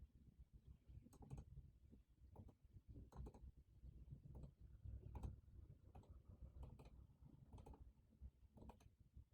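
Faint, sparse computer keyboard keystrokes, single taps roughly once a second at an uneven pace, over a low steady room rumble.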